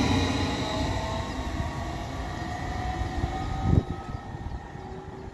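Train running, with a steady rumble and a whine that falls slowly in pitch as the sound fades away. There is a single low clunk about four seconds in.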